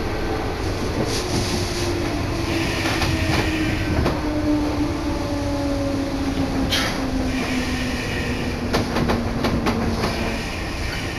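Electric commuter train running, heard from aboard, slowing into a station: its motor whine falls steadily in pitch, with clicks and short squeals from the wheels on the rails.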